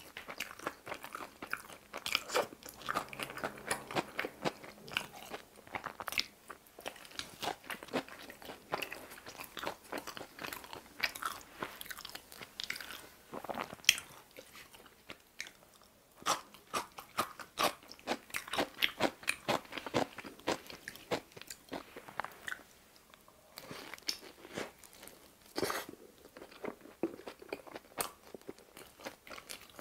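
A person biting and chewing pizza: a dense run of small clicks and crunches, with a couple of short pauses between bites.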